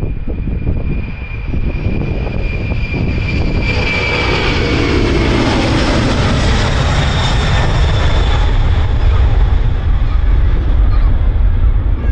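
JAL Boeing 767-300ER jet airliner taking off, its engine whine drifting slightly down in pitch as it passes while the jet noise swells to its loudest through the middle. Strong wind rumbles on the microphone underneath.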